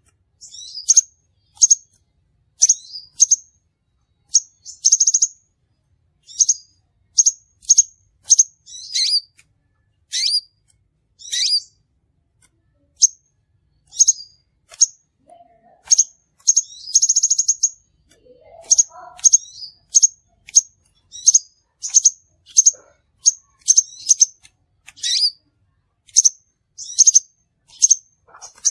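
Crimson sunbird calling: a steady series of sharp, high chips, about one or two a second, broken by a short rapid trill near the start and another about two-thirds of the way through.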